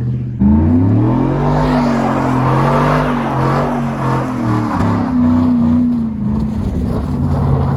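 Vehicle engine revving hard. It comes in sharply about half a second in, climbs in pitch, then holds at high revs, wavering up and down as the throttle is worked.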